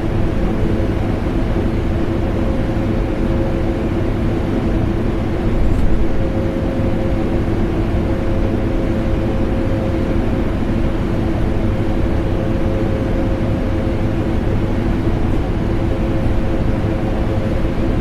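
Vacuum cleaner motor running steadily, a constant whooshing drone with a steady hum in it, mixed with air conditioner noise.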